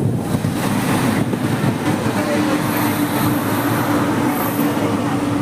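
Simhadri Express passenger train running along the track, a loud steady rumble of the moving coaches. About two seconds in, a steady pitched tone joins the noise and holds to the end.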